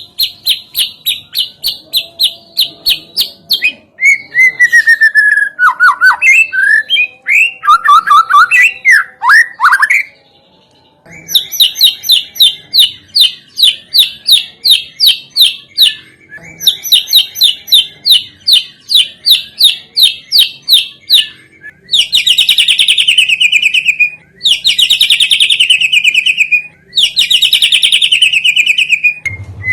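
Recorded songbird calls from a lure track meant to set white-rumped shamas singing: fast runs of sharp, high chirps, a stretch of varied sliding whistles a few seconds in, and near the end three buzzy trills that each fall in pitch.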